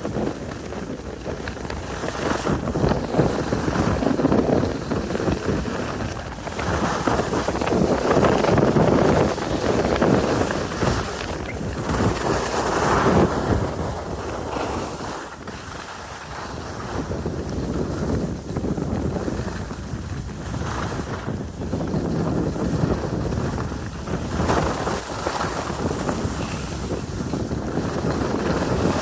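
Wind rushing over the microphone while skiing fast downhill, rising and falling in swells every few seconds.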